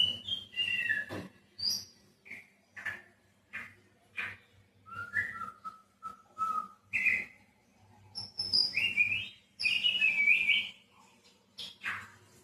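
White-rumped shama singing: a string of short, varied whistled phrases with brief pauses between them. Some notes slide downward, and a few are repeated notes in a row.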